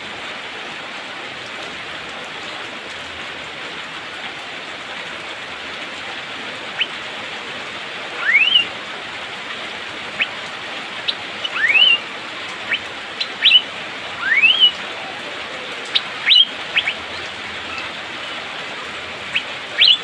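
Steady rain hissing throughout, and from about seven seconds in an Asian fairy-bluebird calling: three rising whistles a few seconds apart and several short, sharp 'pik' notes.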